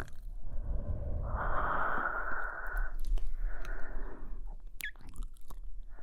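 A woman breathing slowly and softly right at the microphone, ASMR-style. There are two main breaths, a fuller one about a second in and a softer one past the middle.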